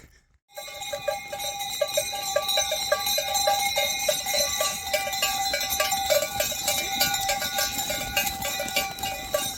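Many livestock bells clanking and ringing at once in a dense, irregular jangle that starts abruptly about half a second in.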